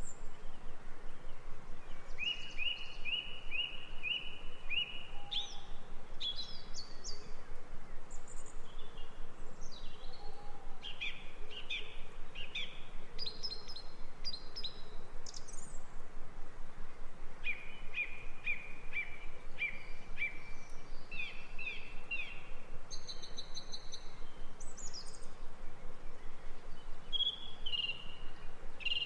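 Songbirds singing, several at once. Some give runs of five or six quick repeated notes, about two seconds in and again in the back half. The singing sits over a steady, even background hiss of outdoor ambience.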